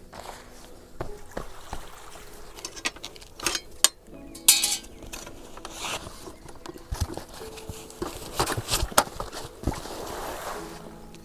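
Irregular clinks, knocks and rattles of things being handled, louder in two clusters, about a third of the way in and again near the end.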